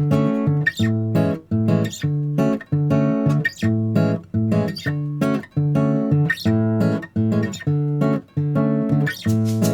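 Background music: plucked acoustic guitar playing a steady rhythmic pattern.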